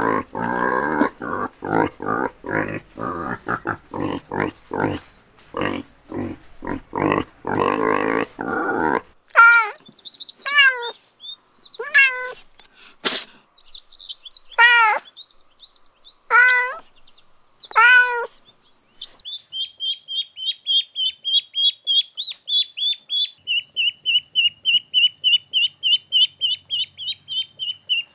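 A domestic pig grunting in quick short pulses. Then a cat meowing about six times, with one sharp click among the meows. Then Canada goose goslings peeping in a fast, high, even series.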